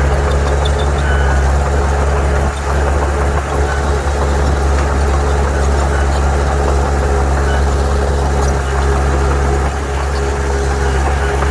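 Heavy diesel engine of earthmoving machinery running steadily at a constant speed, a deep, even engine note that holds throughout.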